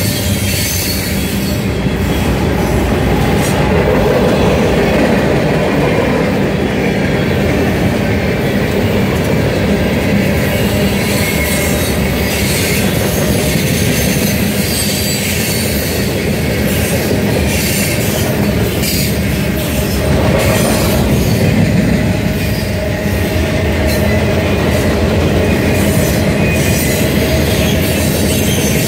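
A freight train's cars rolling past at close range: a loud, steady rumble of steel wheels on rail, with rapid clicking and clatter from the wheels and car couplings.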